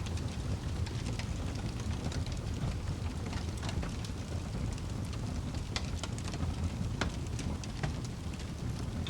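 Wood fire burning in a fireplace, with scattered sharp crackles and pops over a steady low rumble of the flames.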